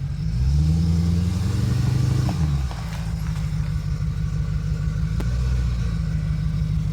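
2003 Land Rover Discovery 2's engine pulling under throttle on a rough off-road trail. It swells up about half a second in, eases back after about two and a half seconds, then runs steady with a lighter swell near the end. A couple of faint knocks come from the vehicle working over the terrain.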